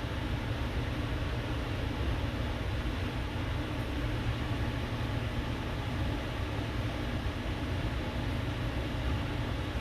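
Steady low rumble and hiss of background room noise, even throughout with no distinct events.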